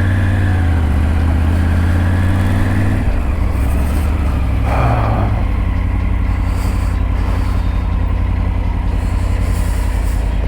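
Triumph Tiger 900's three-cylinder engine running at a slightly raised speed for about three seconds, then settling to a steady idle. A short rushing noise comes about five seconds in.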